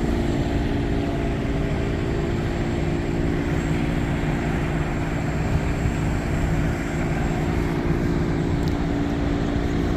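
An engine running at a steady idle: a continuous low drone with a steady hum over it.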